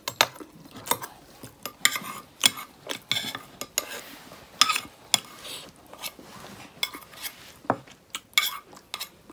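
Utensils clinking and scraping against a plate in a string of irregular short taps and clicks while food is being eaten.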